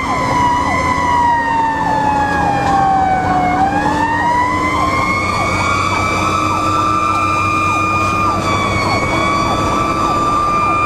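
Fire engine siren wailing, its pitch sinking slowly to about three and a half seconds in and then rising again. Fainter, quicker up-and-down sweeps of a second siren tone run underneath.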